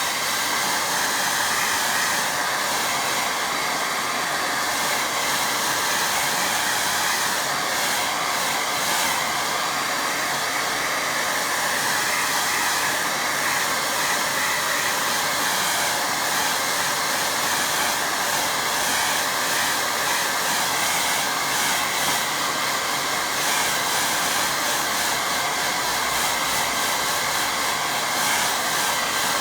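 Hair dryer blowing steadily, drying a wet watercolour painting.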